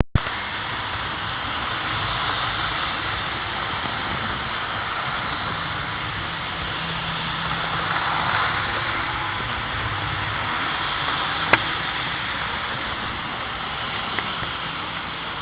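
HO scale model diesel locomotives running on the track, a steady rumble and hiss of motor and wheels with a faint hum. A sharp click comes about eleven and a half seconds in, and a fainter one near the end.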